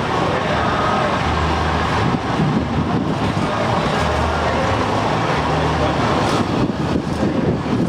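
Truck engines running as a line of trucks drives past, a steady traffic noise with a low engine hum that swells and fades every second or two.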